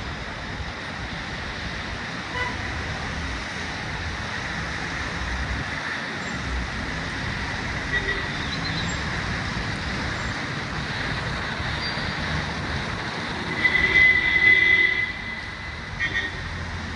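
City street traffic: a steady hiss and rumble of passing vehicles. A car horn sounds for about a second and a half near the end, followed by a couple of short toots.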